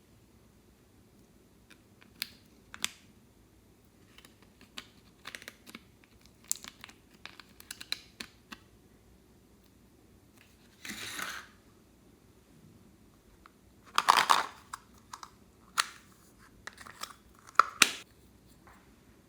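Clear slime being handled and mixed by hand: scattered sticky clicks and pops, with two longer squelching bursts about 11 and 14 seconds in.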